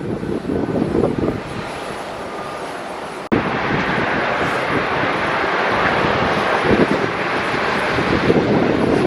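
Gusty wind buffeting the microphone. After an abrupt cut about three seconds in, a steady, loud roar of jet airliner engines in strong wind.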